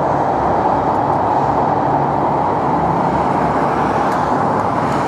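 KiHa 58-series diesel railcar running along the line: a steady drone of its diesel engines mixed with wheel-on-rail noise.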